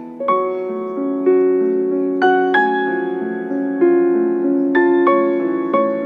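Background piano music: a slow, gentle melody of single notes, struck roughly one or two a second and left to ring.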